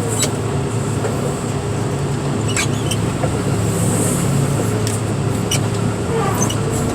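Heavy machine's diesel engine running steadily with a constant whine over it, and a few short clicks.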